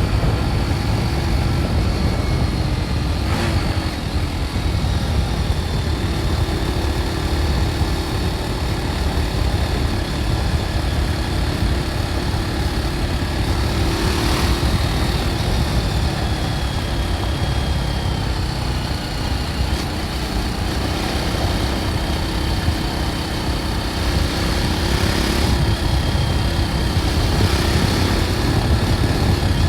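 BMW G310 R's 313 cc single-cylinder engine running steadily through its stock exhaust, with brief swells of rushing noise about 3.5, 14 and 25 seconds in.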